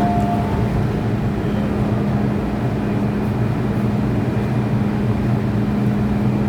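Steady electric hum inside an MTR M-Train passenger car, with a constant low drone. The last note of the train's two-tone door chime ends about half a second in.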